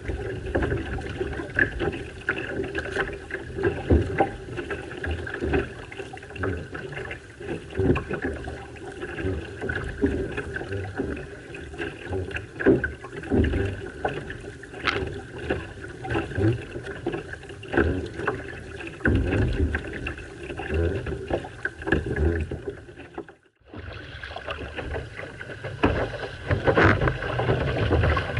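Outrigger canoe being paddled: continuous water rush and splashing with irregular knocks of paddle strokes. The sound cuts out briefly about two-thirds of the way through.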